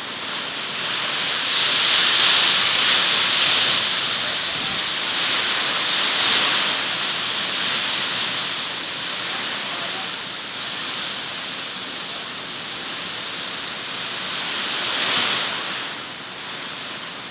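Heavy rain pouring down in a rainstorm, a dense steady hiss that swells and eases in waves, loudest about two to four seconds in and again around fifteen seconds.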